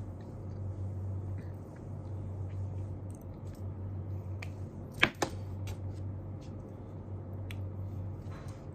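Small desk sounds of someone studying: faint scattered ticks over a steady low hum, with two sharp clicks close together about five seconds in.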